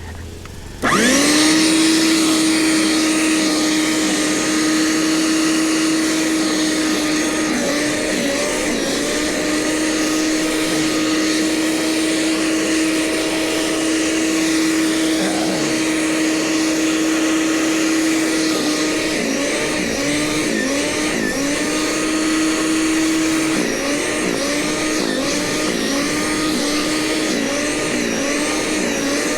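Gasoline snow blower engine starts up suddenly about a second in, revs up and runs at a steady high pitch. In the second half its pitch dips briefly over and over.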